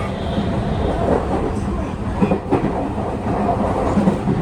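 Running noise inside a Tokyu 5000 series electric train car: a steady rumble of wheels on rail, with several sharp knocks as the wheels cross rail joints.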